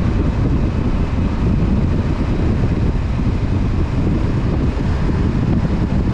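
Wind rushing over the camera microphone as a Honda CB500F motorcycle rides at steady speed, with its parallel-twin engine running underneath. The sound is even throughout, heaviest in the low end, with no gear changes or revving.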